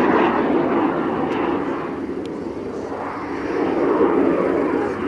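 Fixed-wing display aircraft's engine noise as it flies past. The noise eases a little about two seconds in and swells again about a second later.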